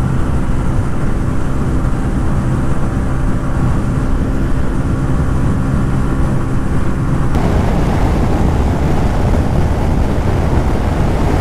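TVS Ronin's 225 cc oil-cooled single-cylinder engine holding steady high revs at full speed, about 120 km/h, with wind rushing over the microphone. About seven seconds in, the sound switches abruptly to a louder rush of wind over the Honda CB350 RS's engine.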